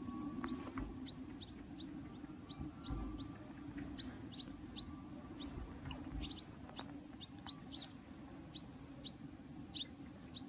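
Small bird calling: a long series of short, high chirps, a few a second, over a steady low background hum, with a few soft low thumps.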